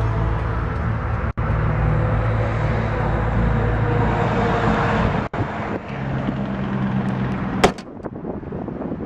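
Ford 5.4-litre Triton V8 idling with a steady low hum. A sharp knock comes near the end, after which the sound is quieter.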